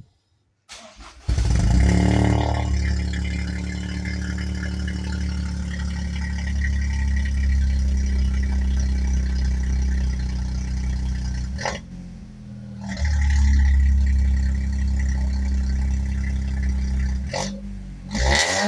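GR Corolla's turbocharged 1.6-litre three-cylinder starting about a second in with a brief flare, then settling to a steady idle, heard through an aftermarket catted downpipe and mid pipe with the stock rear muffler. Near twelve seconds the sound drops away for about a second, then comes back as loud.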